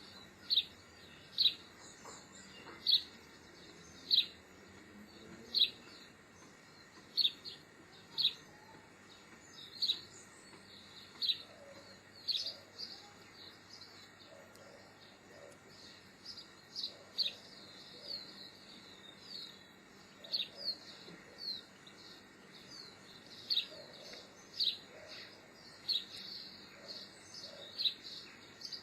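Birds chirping: one bird repeats a short, high chirp about once a second, and from about halfway through more chirps overlap it, with softer, lower calls underneath.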